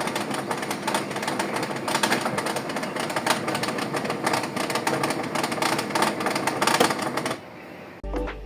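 Brother printer running with a rapid, irregular mechanical clicking and rattling that stops about seven seconds in: the fault clicking blamed on a faulty paper feeder tray.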